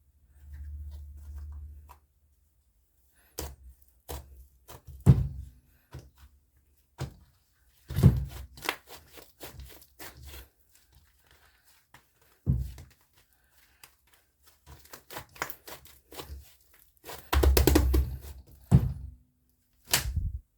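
Purple slime being handled, pressed and pulled apart by hand: scattered sticky clicks and crackles with soft thuds, the busiest stretch about three quarters of the way through.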